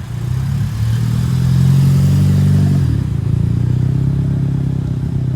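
Car engine running loud under steady throttle, its pitch creeping up and then dropping about three seconds in, like a gear change.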